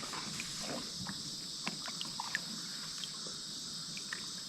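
Steady high-pitched chorus of insects, with a few faint scattered clicks and small knocks.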